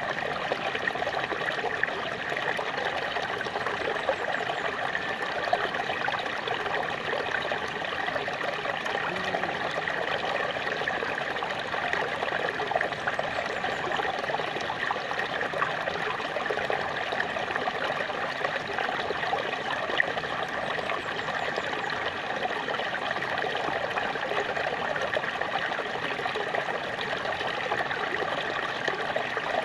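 A small waterfall splashing and trickling steadily, an even rush of falling water with small splashes running through it.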